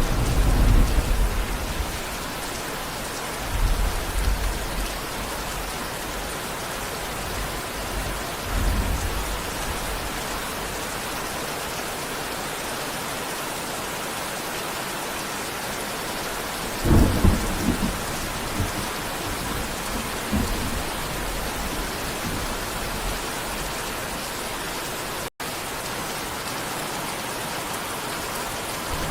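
Steady heavy rain falling, with low rolls of thunder swelling and fading several times, the loudest about two thirds of the way in. A split-second dropout to silence comes near the end.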